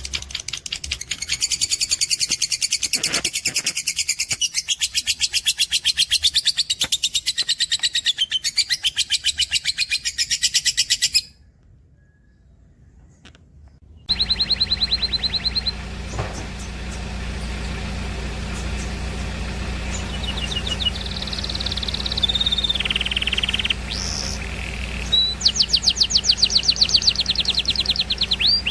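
Canary and lovebird song: fast, dense high chatter and trills for about eleven seconds, which break off suddenly for a few seconds. The song then resumes with varied whistles, pitch glides and quick repeated notes.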